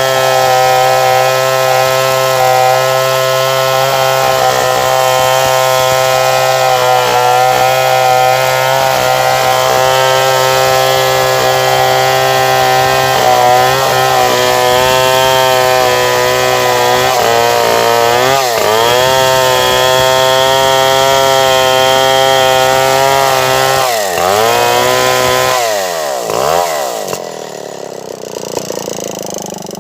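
Stihl 070 two-stroke chainsaw running at high revs, cutting through wood. The engine note dips and recovers a few times about two-thirds of the way through, then drops away near the end.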